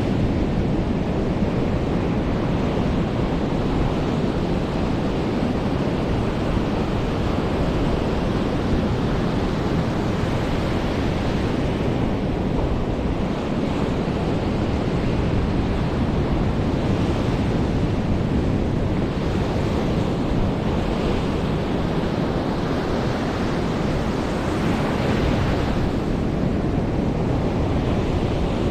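Surf breaking and washing up a beach in a steady roar, swelling every few seconds as each wave comes in, with wind rumbling on the microphone.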